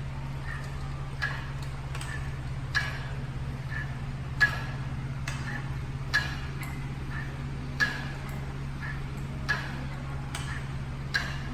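Sharp clicks or ticks repeating at an even beat of about one every 1.7 seconds, with softer ticks in between, over a steady low hum.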